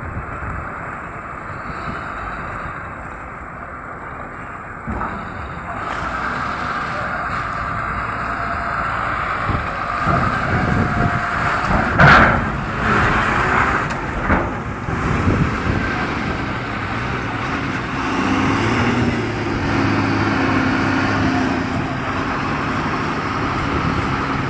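Motor vehicle engines running, with steady outdoor traffic noise, a sudden loud knock about halfway through and a steady low engine hum in the last few seconds.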